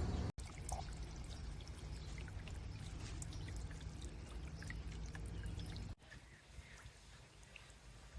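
Solar-powered bird bath fountain spraying, its water splashing and trickling back into the basin with many small droplet patters. The sound cuts off abruptly twice, about a third of a second in and about six seconds in.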